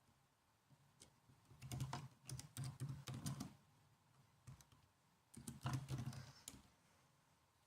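Typing on a laptop keyboard: a run of key clicks starting about a second and a half in, a pause, then a second shorter run about five and a half seconds in, with quiet between.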